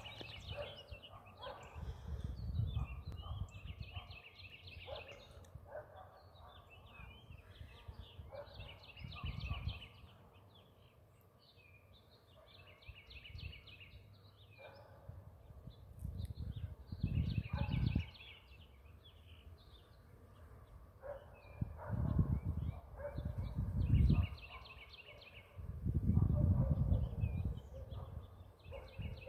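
Songbirds singing throughout, with many short, repeated, trilled phrases. Several low rumbling gusts of wind on the microphone come and go and are the loudest parts.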